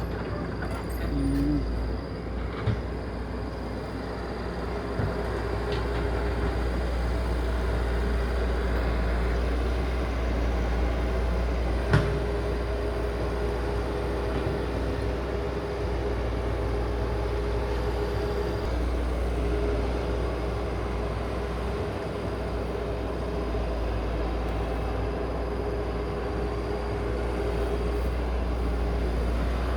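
Heavy vehicle engine running steadily with a deep low rumble and a faint steady whine, with a single sharp knock about twelve seconds in.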